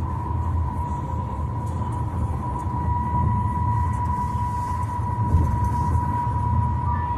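Cabin noise of a SsangYong Korando cruising on a highway: a steady low rumble of road and tyre noise with a thin, constant high whine over it.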